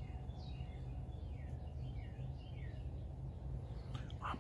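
Small birds chirping, a scattered run of short, falling chirps, over a steady low rumble of background noise.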